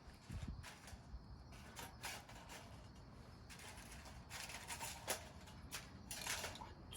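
Small wood fire crackling in a camping wood stove: faint, irregular pops and short crackles, with a few denser clusters of crackling in the second half.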